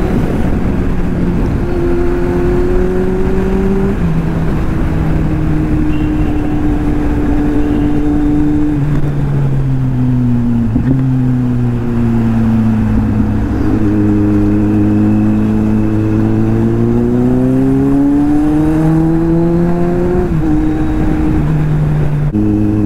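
Kawasaki Z800's inline-four engine running under way. Its note rises with the throttle and drops several times at gear changes, then climbs slowly through much of the second half. A steady rush of wind noise lies underneath.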